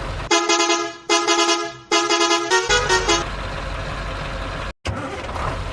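A vehicle horn honks three long blasts, then a few quick short toots, followed by a steady engine rumble.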